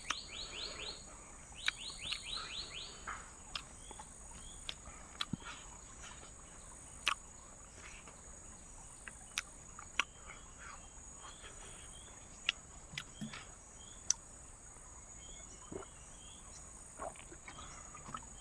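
Night insects trilling steadily in a high continuous tone, with quick series of chirps in the first three seconds and scattered sharp clicks and snaps throughout.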